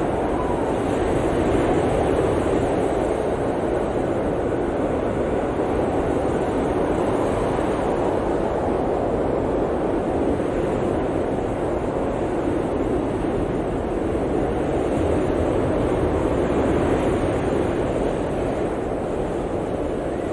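Blizzard wind blowing hard and steadily, with slow swells in strength.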